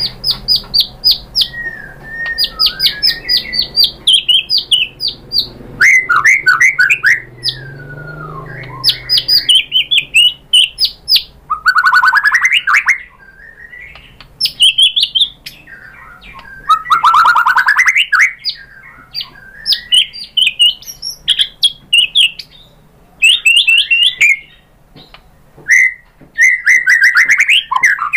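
White-rumped shama (murai batu) singing in loud, varied phrases with short pauses between them. The phrases are runs of rapid, sharp repeated notes, fast rattling trills and slurred whistles.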